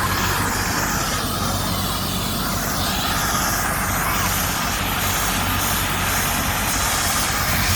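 Helicopter running close by: a loud, steady rush of rotor and engine noise over a low, even hum.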